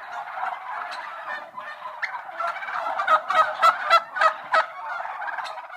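A flock of birds calling at once, a dense chorus of overlapping honking calls with sharper, louder calls standing out in the second half.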